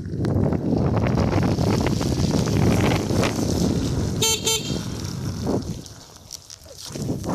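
Two short toots of a motorcycle horn fitted to an electric unicycle, about four seconds in, over a heavy low rumble of wind on the microphone while riding.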